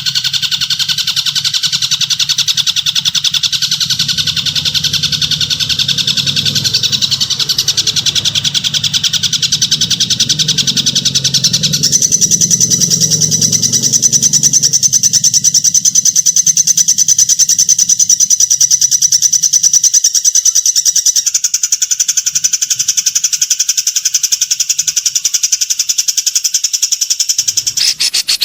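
Harsh, rapid bird chattering: a continuous buzzy trill of fast-repeating notes, used as a 'kasaran' training call for captive songbirds. A lower rasping sound runs underneath and fades out about twenty seconds in.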